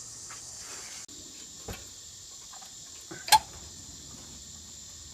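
Steady high-pitched insect chorus, typical of crickets, with a few faint ticks and one sharp metallic click about three seconds in.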